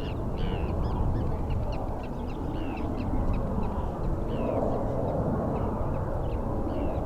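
Birds calling with many short, falling chirps, several a second, over a steady low rumble.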